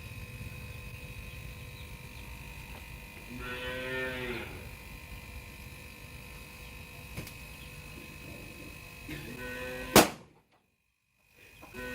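Steady low machine hum with faint high whine, twice overlaid by a short lowing call like a cow's moo. Near the end a sharp loud click, and the sound cuts out abruptly before the hum returns.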